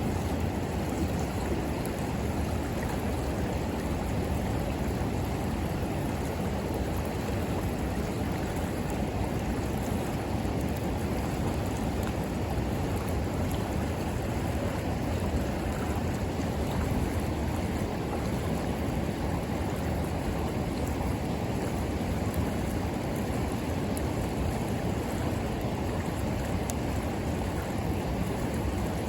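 River water flowing steadily, a low, even rush, with a few faint crackles from a bonfire.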